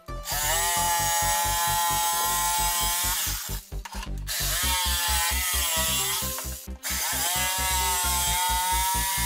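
Handheld electric jigsaw cutting through a wooden board, its motor whining steadily. It stops briefly twice, about three and a half and six and a half seconds in, and the whine rises in pitch each time it starts again.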